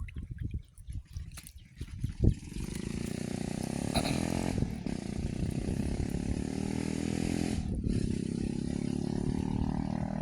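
A small engine running steadily, starting about two seconds in, after a few scattered low knocks.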